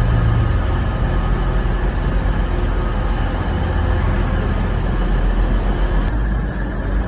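A train running through a station: a steady, loud low rumble with a faint hum of tones above it. The higher sounds drop away abruptly about six seconds in.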